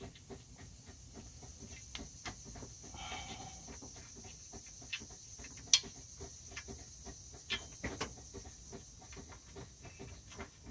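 Quiet metal clicks and ticks of a hand wrench working the bolts loose on a power steering pump, with one sharper click about six seconds in.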